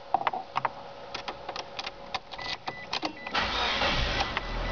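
A string of sharp clicks, then about three and a half seconds in a Mitsubishi Colt Plus engine starts from cold and settles into a steady run.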